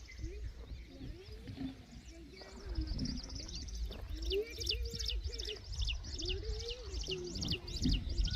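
A bird calling: a quick series of short, high, repeated notes, about three a second, starting about two and a half seconds in, over a low rumble.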